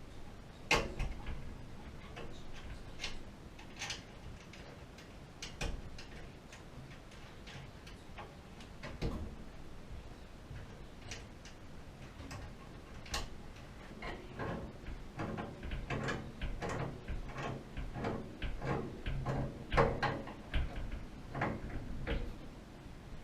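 Irregular sharp clicks and light knocks, a few at a time at first, then coming thick and fast over the second half.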